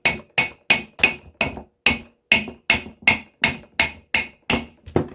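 Hammer blows knocking the shaft out of an aluminium electric motor housing: about thirteen steady strikes, roughly two and a half a second, each with a short metallic ring, stopping near the end.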